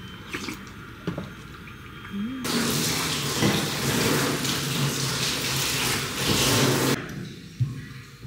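Water running from a tap into a sink, turned on about two and a half seconds in and shut off about two seconds before the end, with a few light clicks before it.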